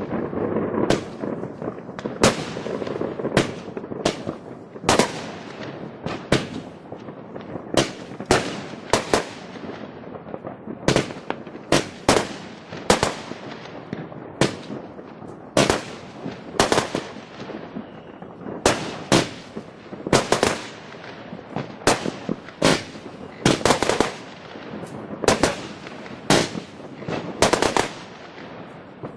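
New Year's fireworks going off: a long run of sharp bangs, irregularly spaced at about one or two a second, over a continuous noisy background.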